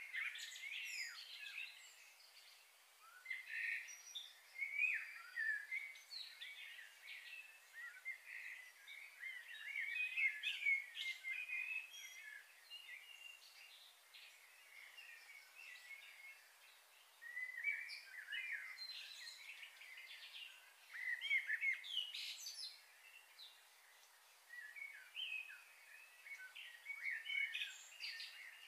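Small birds chirping and twittering in repeated clusters of short, high-pitched calls, with quieter stretches between them.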